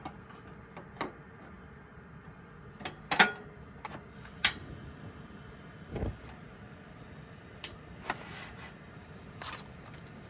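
Scattered knocks and clinks of things being handled and set down, the loudest a ringing clink about three seconds in, with a dull thump about six seconds in.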